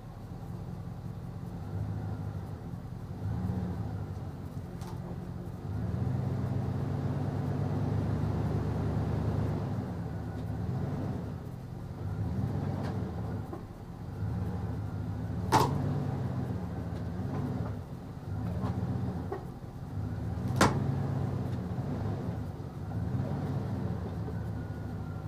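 Jeep Grand Cherokee's 5.2-litre Magnum V8 revving up and falling back again and again under load as it tows a heavy truck on a rope. Two sharp knocks come about five seconds apart, past the middle.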